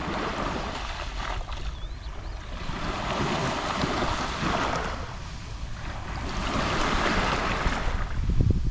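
Small sea waves lapping and washing onto the shore, two slow swells of surf rising and falling a few seconds apart. A low rumble of wind on the microphone runs beneath, buffeting near the end.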